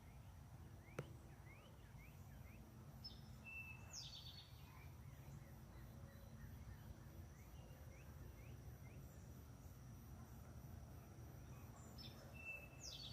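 Faint birdsong: one bird gives the same call twice, about four seconds in and again near the end, with scattered small chirps from other birds over a low steady rumble. A single faint click comes about a second in.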